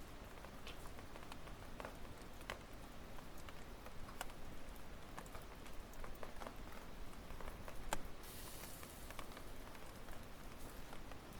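Firewood burning in a campfire, crackling with irregular snaps and pops over a low steady background. The sharpest pop comes about 8 seconds in, followed by a brief hiss.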